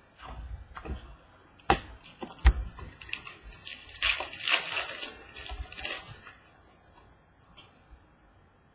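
Trading cards and packs being handled: two sharp clicks, then about three seconds of crinkly rustling that dies down to faint handling sounds.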